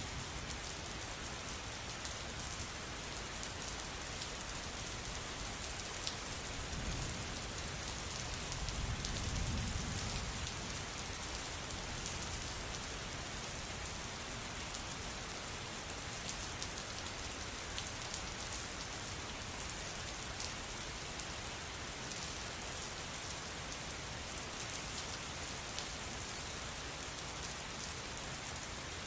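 Steady rain falling, an even hiss with many single drops ticking sharply through it. A low rumble swells briefly for a few seconds about a third of the way in.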